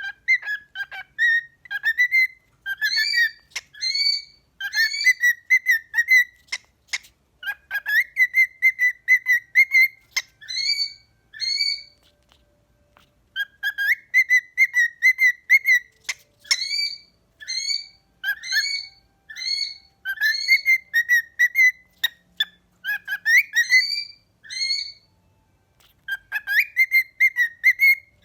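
Pet cockatiels whistling a learned tune in quick, high, rising notes, phrase after phrase, with two short pauses and a few sharp clicks.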